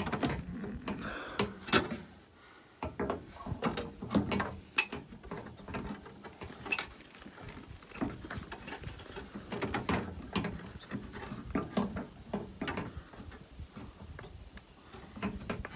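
Irregular metal clicks and clinks of a wire lamp guard being handled and test-fitted against the rear of a Land Rover Series IIA at the license-plate bolt hole; the guard won't sit low enough for the bolt to pass through.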